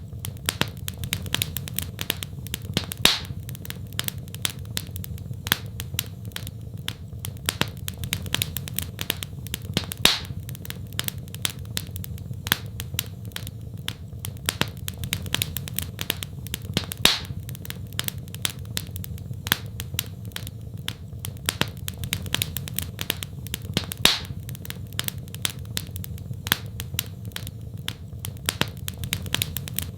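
Wood fire crackling in a fireplace: a dense run of small clicks, with a louder pop every few seconds over a steady low rumble.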